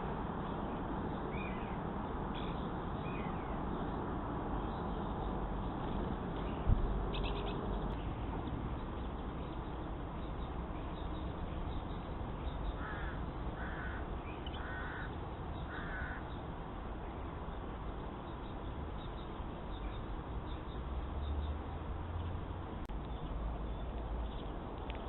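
A crow cawing four times in a row, about a second apart, over a steady hiss. A single sharp thump sounds about seven seconds in.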